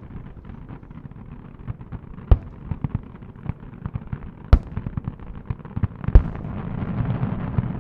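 Fireworks in a rapid-fire finale barrage. Three big shell bursts bang about two seconds apart, the last the loudest, over a running patter of smaller pops. A denser crackle swells near the end.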